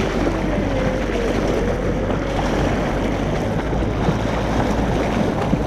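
Small boat underway: its outboard motor runs with a steady low hum under the rush of wind and water against the hull.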